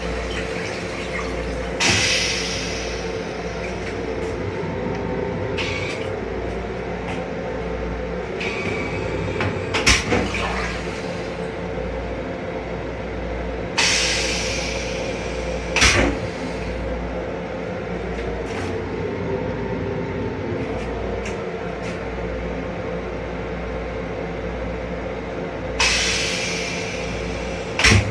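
Steady running hum of a Metro-North M7 electric railcar, heard inside its small restroom, with a constant low drone. Short hissing swells come about every twelve seconds, and a few sharp knocks or rattles are heard in between.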